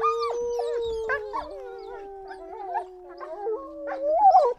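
Wolf howling: one long howl that holds and then slowly sinks in pitch for about three and a half seconds, with shorter, higher wavering calls over it. A second rising howl starts near the end.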